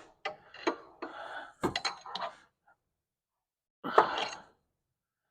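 Metal tools and suspension parts clanking and clinking as they are handled, several short knocks in the first couple of seconds. A single louder, ringing metallic knock comes about four seconds in.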